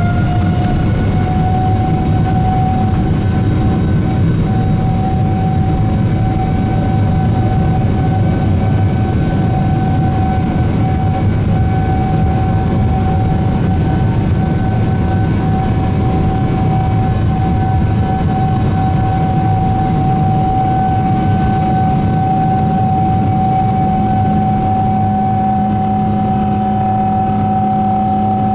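Boeing 777-200ER's jet engines at takeoff thrust, heard from the cabin: a loud steady rumble under a fan whine that rises in pitch in the first second and then holds steady. A lower hum joins near the end.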